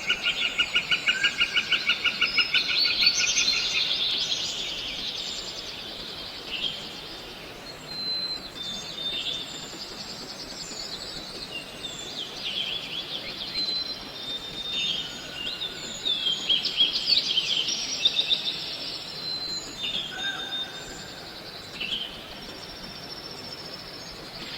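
Birds chirping and calling over a steady outdoor hiss. The first three seconds hold a fast trill of many quick repeated notes, followed by scattered short high chirps and whistles.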